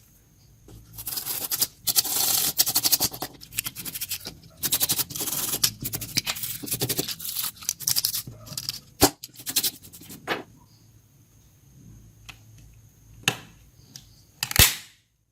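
Scratching and scraping of a small tool working on a phone's parts, in rapid rough bursts, followed by a few sharp clicks, the loudest near the end.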